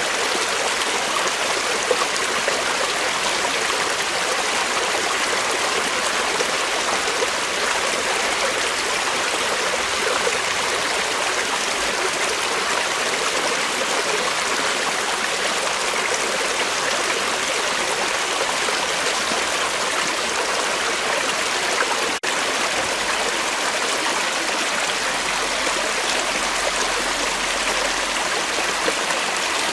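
Creek water flowing, a steady even rush, with a momentary dropout about two-thirds of the way through.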